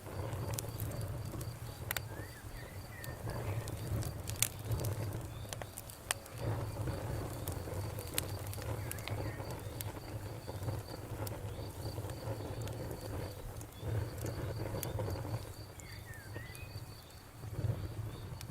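Campfire crackling, with sharp pops at irregular moments over a steady low sound of the fire. An insect chirps behind it in a steady row of quick pulses.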